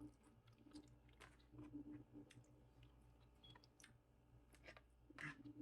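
Faint chewing with many small, irregular wet mouth clicks: a person eating.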